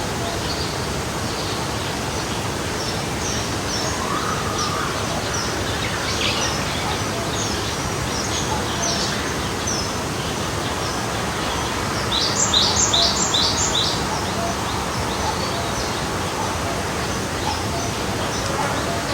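Forest stream flowing steadily, with small songbirds chirping over it; about two-thirds of the way through one bird gives a louder quick run of about five high chirps.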